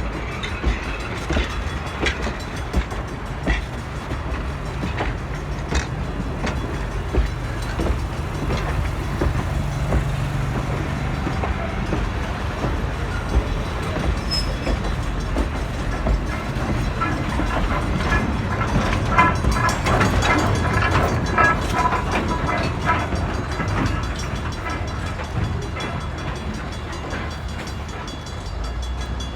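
Train running on the track, with a steady low rumble and wheels clicking over the rail joints, and a run of short high tones about two-thirds of the way through.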